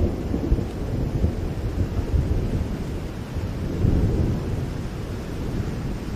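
Steady rain with low rolling thunder that swells about four seconds in.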